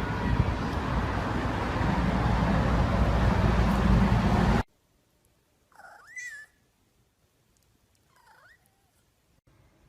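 A loud, steady rushing noise that cuts off suddenly, then a house cat meowing twice, one rising-and-falling meow and a second fainter, shorter one.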